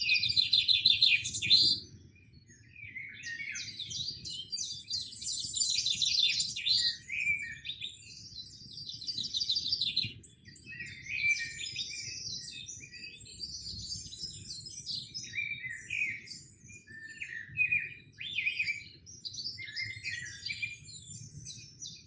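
Several birds singing and chirping at once, a dense run of quick overlapping chirps and trills. The loudest burst comes in the first two seconds, followed by a short lull.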